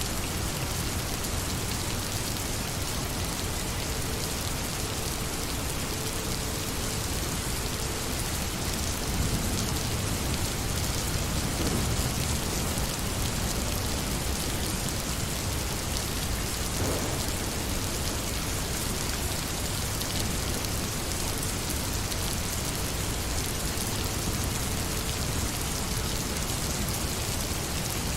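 Steady rain falling, a dense, even hiss of drops with no let-up, swelling slightly in the low end about ten seconds in.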